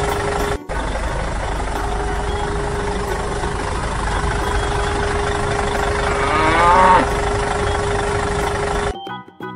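Tractor engine idling steadily, dropping out briefly about half a second in. About six seconds in a cow moos once, a falling call lasting about a second and the loudest thing here. The engine sound cuts off near the end.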